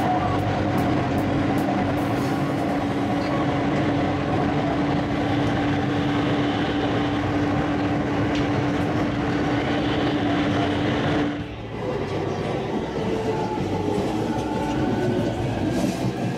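Electric commuter train running, heard from inside the carriage: steady rumble of the wheels on the rails with a steady hum. About eleven seconds in, the hum stops and the sound briefly dips, followed by a faint rising tone.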